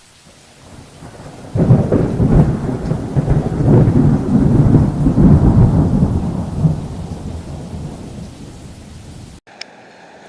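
A long peal of thunder over steady rain: the rumble sets in about a second and a half in, stays loud for several seconds, then slowly fades before cutting off abruptly near the end.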